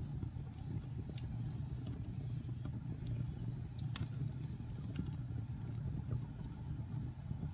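Wood fire crackling in a fireplace: scattered sharp pops and snaps over a steady low rumble, with one louder pop about four seconds in.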